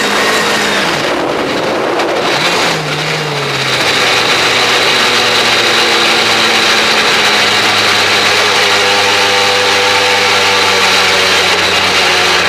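Mugen-powered Honda Civic Type R R3 rally car's four-cylinder engine, heard from a camera on the front bumper: the revs fall and waver for the first few seconds, then hold steady while the engine keeps running.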